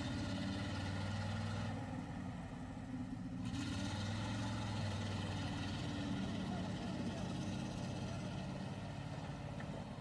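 Truck engine running steadily, a deep even note that wavers slightly in pitch.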